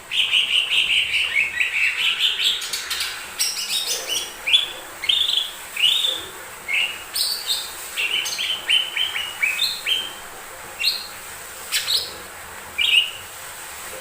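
Cucak ijo mini (lesser green leafbird) singing. It begins abruptly with a fast, continuous run of chirping notes, then breaks into separate short upslurred whistles with short pauses between them.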